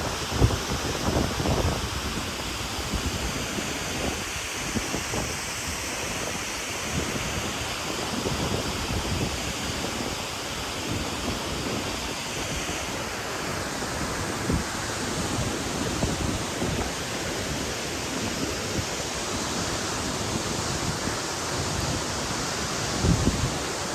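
Waterfall rushing steadily, with wind buffeting the microphone in low gusts in the first couple of seconds and again near the end.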